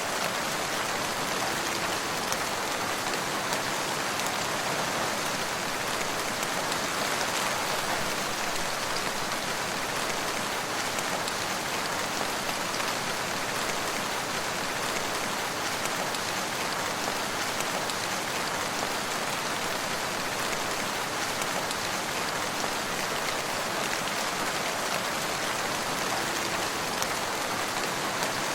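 Steady rain falling and pattering on surfaces, a constant even hiss with no change in strength.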